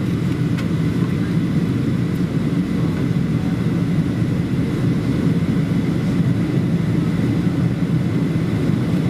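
Steady cabin noise inside a Boeing 737-800 airliner heard from a window seat: the low, even rumble of its CFM56 turbofans and airflow, with a faint steady high tone above it.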